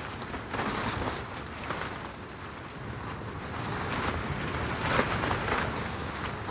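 Strong gusting wind buffeting the microphone: a low rumble under surges of rushing hiss, the strongest gust about five seconds in.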